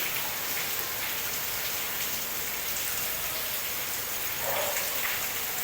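Steady hiss of rain and leaking water, with a faint voice briefly about four and a half seconds in.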